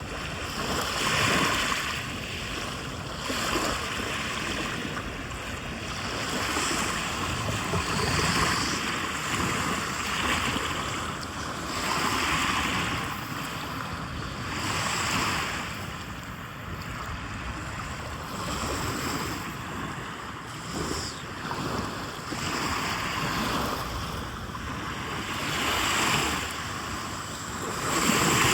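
Waves washing onto a lake shore, each swelling and then fading over a few seconds.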